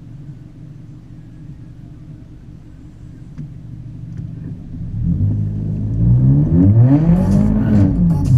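VW Scirocco engine running at a low, steady idle, then revved hard from about five seconds in: the engine note climbs steeply, peaks and falls back near the end as the car accelerates.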